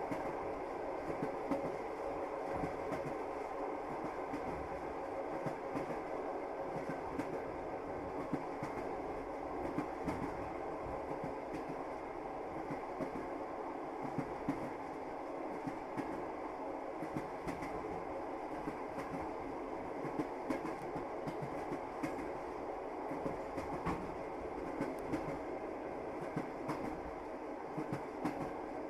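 Moving passenger train: a steady rumble from the carriage, with frequent short knocks of the wheels clacking over the rails.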